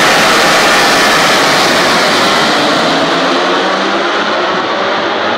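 A pack of MotoGP racing motorcycles at full throttle, many high-revving four-stroke engines blending into one loud, dense scream that fades a little toward the end.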